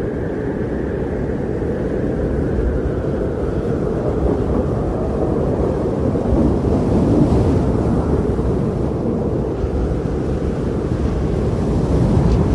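Strong blizzard wind blowing in a steady, deep rush that swells and eases slightly, most of it low and rumbling.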